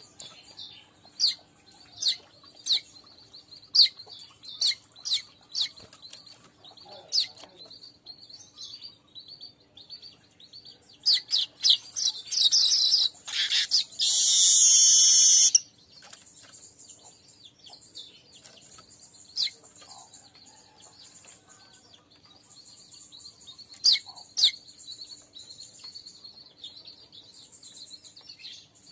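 Manyar weaver birds (streaked weaver) calling: sharp high chirps at first, a loud, dense, sizzling buzzy stretch in the middle, then near-continuous high chattering with a few sharp chirps near the end.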